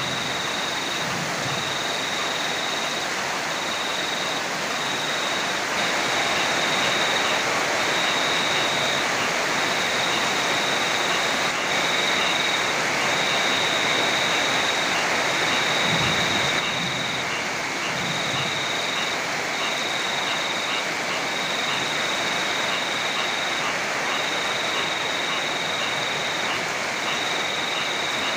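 Heavy rain falling steadily, a dense even hiss. A high-pitched trill broken into pulses about once a second runs through it.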